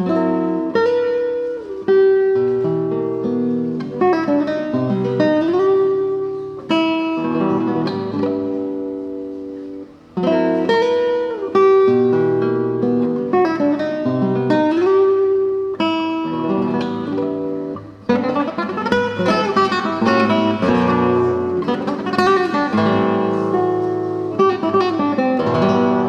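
Solo acoustic guitar playing a slow melodic piece, with notes sliding in pitch and a brief pause between phrases about ten seconds in and again near eighteen seconds.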